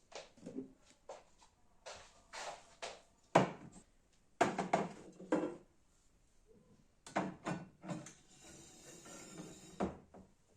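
Wooden cabinet doors, drawers and panels being handled: irregular knocks and clunks, with a stretch of rustling or scraping near the end.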